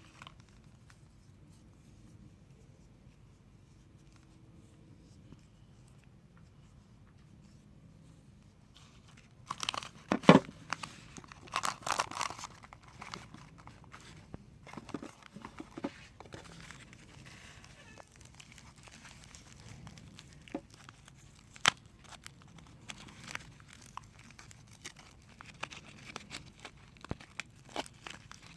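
A soap wrapper being unwrapped and torn open, crinkling and crackling. It is faint for the first nine seconds or so, then comes a close run of loud crackles, followed by scattered crinkles and clicks.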